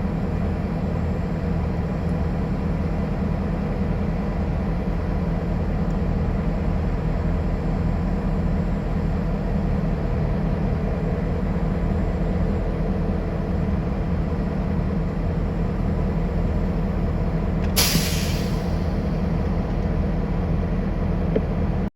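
Train running with a steady low rumble. About eighteen seconds in there is a sudden sharp hiss of air that fades over about a second.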